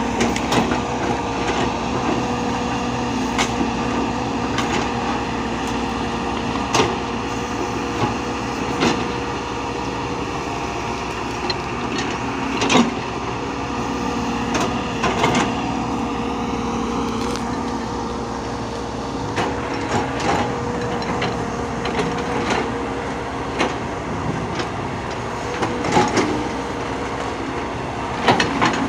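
A machine's engine running steadily, with scattered short knocks and clanks.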